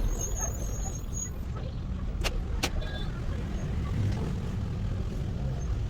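Low, steady rumble with no clear pitch, like traffic or a vehicle engine in the background, with two sharp clicks about two and a half seconds in.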